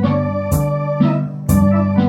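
Electronic organ playing a trot tune: sustained organ chords under a melody, with a steady accompaniment beat about twice a second.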